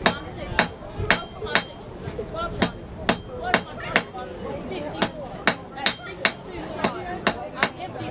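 Blacksmith's hammer striking mild steel on an anvil, about two blows a second in runs of three or four with short pauses, each blow ringing sharply.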